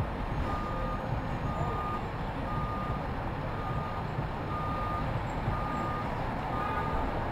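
A vehicle's reversing alarm beeping at an even pace, about one beep a second, over the steady low rumble of city street traffic.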